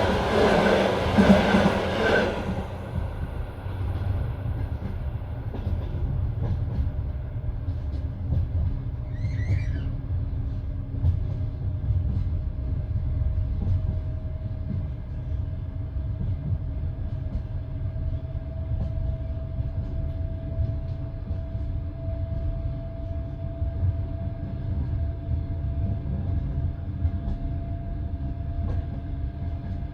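Passenger train coach running along the line, its wheels and bogies giving a steady low rumble on the rails. A louder rush of noise dies away about two seconds in, and a faint thin tone slowly rises in pitch through the second half.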